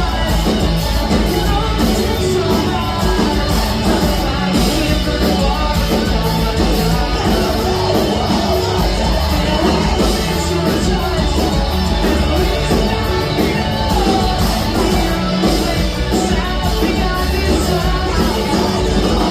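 Loud rock music with singing and shouted vocals over a full band with heavy bass.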